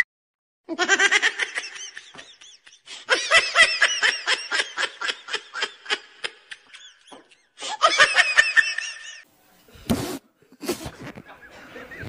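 High-pitched laughter in quick repeated ha-ha bursts for about eight seconds, with a short break partway through, then a few fainter, lower laughs near the end.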